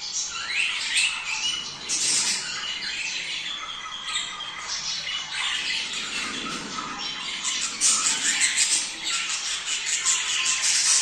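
A flock of budgerigars chattering and squawking without pause, many short calls overlapping. This is the breeding-season chatter of budgies, played to stimulate pairs to mate.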